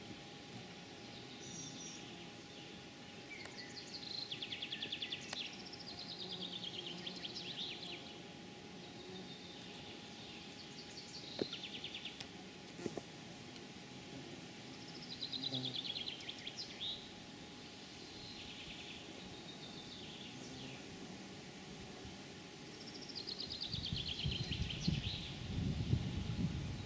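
A songbird singing short, fast trilled phrases, each about a second and a half long and repeated every few seconds. A low rumble comes in near the end.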